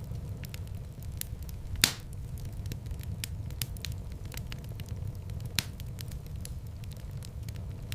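Wood fire burning in a fireplace: a steady low rumble of flames with frequent small crackles and two louder pops, one about two seconds in and one a little past the middle.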